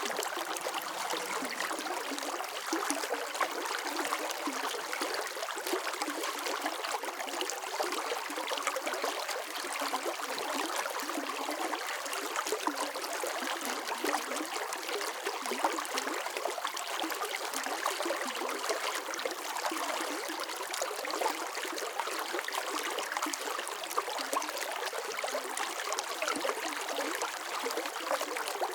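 Running water flowing steadily, a stream-like babble full of small splashes and trickles, with no deep rush.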